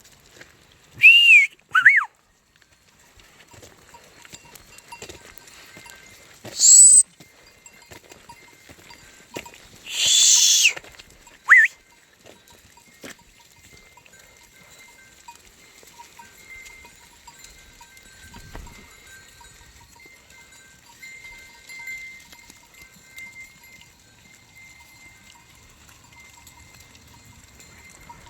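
A shepherd's sharp, high-pitched whistles driving a flock of sheep: four short blasts in the first twelve seconds, gliding up and down in pitch. After them, faint broken tinkling like small livestock bells.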